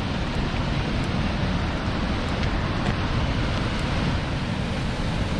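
Steady rushing of river water, with wind buffeting the camera microphone in a low, flickering rumble.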